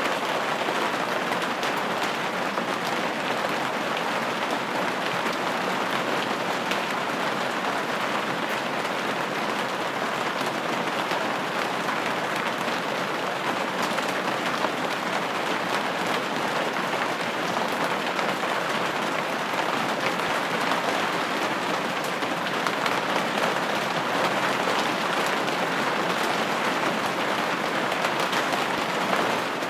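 Steady rain pattering on a window pane, an even hiss with fine scattered drop ticks.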